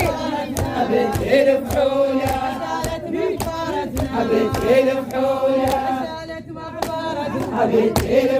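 'Arada-style chanting: voices chanting together over a steady percussive beat, with a short lull about six and a half seconds in.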